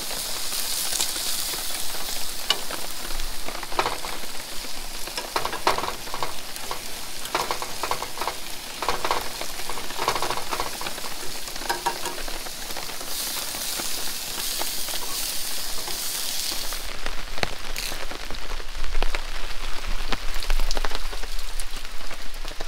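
Sausage, onions and potatoes sizzling in a frying pan and pot on a propane camp stove, with a plastic spork scraping and clicking against the pans as the food is stirred. About seventeen seconds in this gives way to a steady patter of rain falling onto wet, puddled ground, a little louder.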